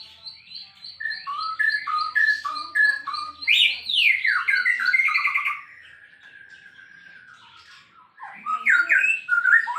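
White-rumped shama singing: a string of short repeated phrases over a fast, high ticking, then one long level whistle, then a loud burst of quick, varied notes near the end.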